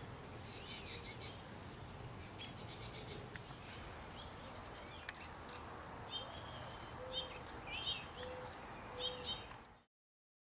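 Songbirds chirping and calling outdoors: many short, sharp chirps and quick up-and-down notes, busiest in the second half, over a steady low background rumble.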